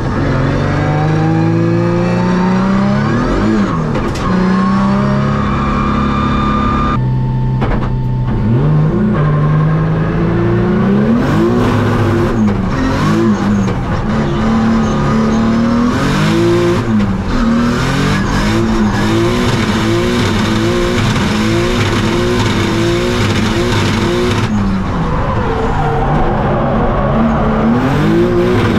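Nissan 350Z race car's engine revving hard and rising and falling in pitch over and over, the revs swinging up and down in quick repeated surges through the middle, as it is driven on track through a sequential gearbox.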